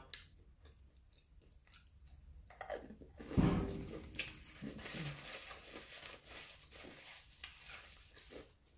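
A person chewing food close to the microphone, with small mouth clicks, and a louder low thump about three and a half seconds in.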